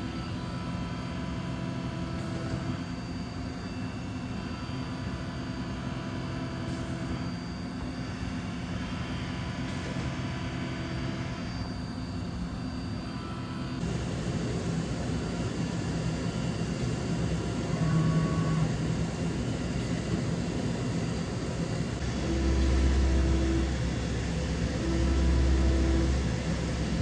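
A CNC 5-axis machining centre running, with a steady hum and several whining tones. About halfway through the sound turns coarser, and near the end a deep hum swells and fades three times, about every two and a half seconds.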